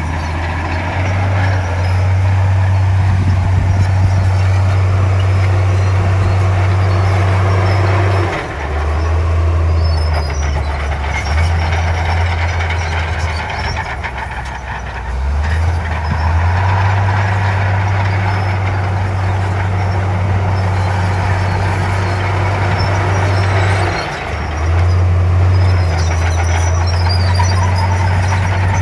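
Diesel engine of heavy earthmoving machinery running under load: a loud, low drone that eases off and picks up again several times.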